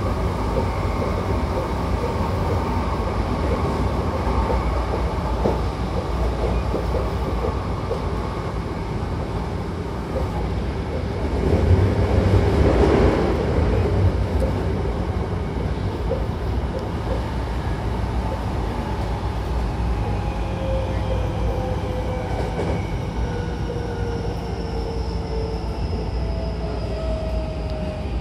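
Hankyu electric commuter train running between stations, heard from inside the car: a steady low rumble of wheels on track, with a louder stretch about twelve seconds in. In the second half, the electric motors' whine falls slowly in pitch as the train slows.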